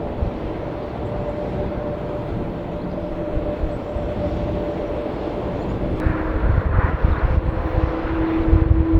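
Jet airliner engines running: a low rumble with a steady whine, growing louder and fuller about six seconds in.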